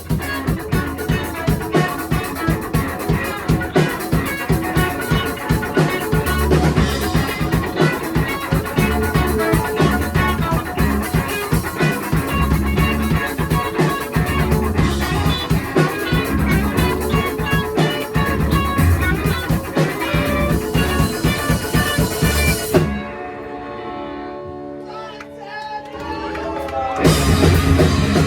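Live rock band playing with drums and guitar. About 23 seconds in, the drums drop out, leaving a few ringing held notes. The full band comes back in loudly about four seconds later.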